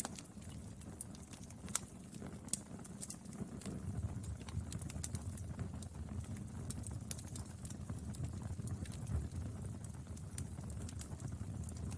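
Burning firewood: a low steady rumble with frequent irregular crackles and a few sharper pops.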